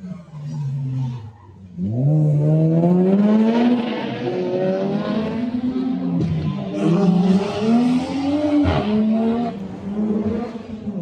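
Car engine revving hard on the track. It picks up sharply about two seconds in, then its pitch climbs and falls with two sudden dips, about six and nine seconds in.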